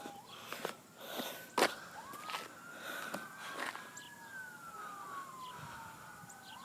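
Distant emergency-vehicle sirens wailing, two overlapping tones slowly rising and falling, with a few short knocks or clicks close by.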